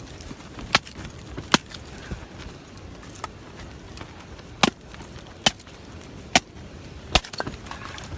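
A series of sharp single knocks, about seven, spaced roughly a second apart at an uneven pace, like something being struck or chopped by hand.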